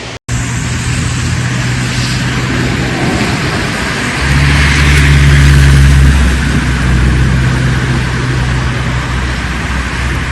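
A motor running steadily under loud rushing noise, swelling for a couple of seconds about four seconds in.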